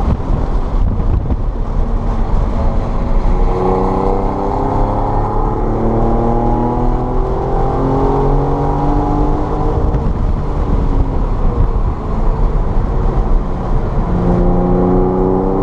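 Car engine under hard acceleration on a wet track, its pitch climbing steadily for several seconds, then dropping after a gear change and climbing again near the end. A steady heavy rumble of road and spray noise runs underneath.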